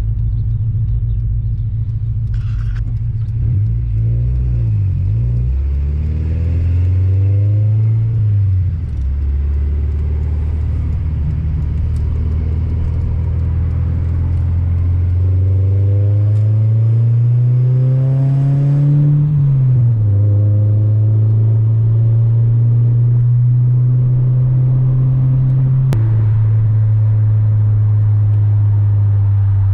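Integra's four-cylinder engine driving off: the engine note climbs under acceleration and drops at a gear change, twice, then holds steady at cruise.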